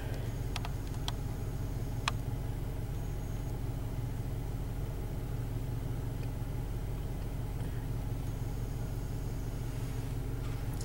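Car engine idling steadily, heard from inside the cabin, with a few light clicks in the first two seconds.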